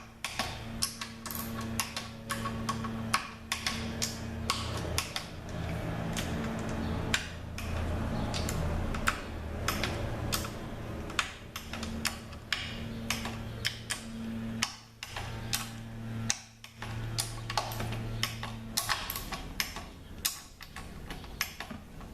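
Ratchet and torque wrench clicking in irregular runs of sharp clicks as the oil pan bolts of a ZF 6HP26 automatic transmission are tightened to 105 inch-pounds. A steady low hum sits underneath and stops a few seconds before the end.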